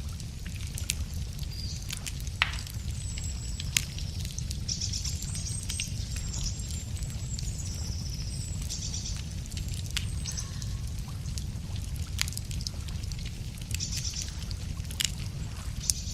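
Wood campfire crackling, with scattered sharp pops and snaps over a steady low rumble. Birds sing in short high phrases several times.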